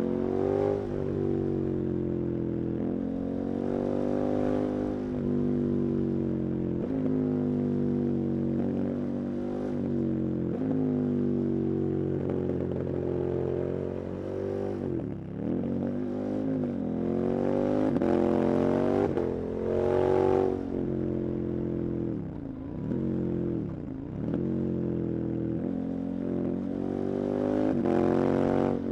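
KTM 1290 Super Adventure's big V-twin engine being ridden hard, its pitch climbing and falling with throttle and gear changes. The revs drop sharply and pick up again about halfway through and twice more a few seconds later.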